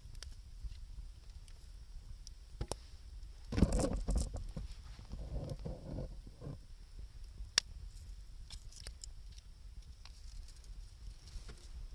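Wood fire of scrap 2×4 lumber and gathered wood crackling, with occasional sharp pops. About three and a half seconds in, a louder muffled, uneven rumbling runs for around three seconds.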